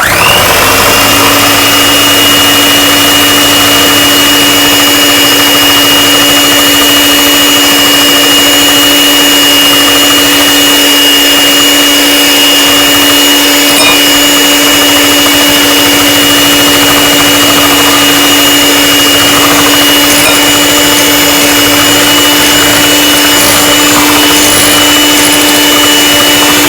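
Electric mixer motor running steadily at one constant pitch, switched on abruptly, beating the macaron meringue.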